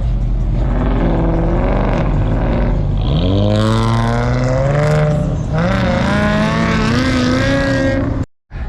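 A car engine revving: the pitch climbs and is held high, drops about 5.5 s in, then climbs and holds again. A rushing hiss rides over the first long rev. The sound cuts off abruptly near the end.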